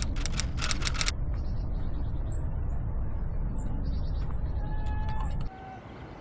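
A camera shutter firing in a rapid burst of about seven clicks near the start, over a steady low rumble of wind on the microphone that drops away abruptly late on. Faint, short, high bird chirps come through now and then.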